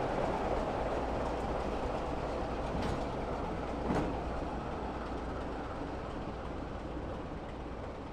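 A train running along the line, its rumble slowly fading as it moves away, with two sharp clicks about three and four seconds in.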